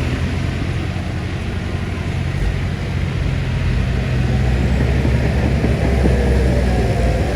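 Heavy diesel engine of earthmoving equipment running under load with a steady low rumble, growing a little louder about halfway through as its pitch rises slightly.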